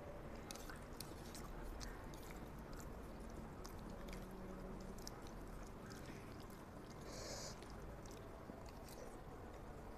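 Faint chewing of a mouthful of spaghetti, with many small wet mouth clicks, and a fork twirling the pasta against the plate; a short rasp about seven seconds in.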